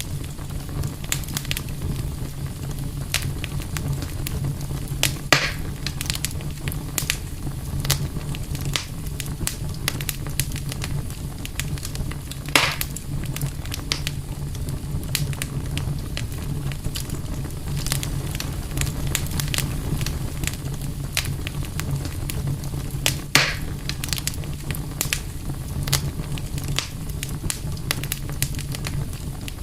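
Campfire crackling with frequent small snaps and a few louder pops, over a steady low rumble.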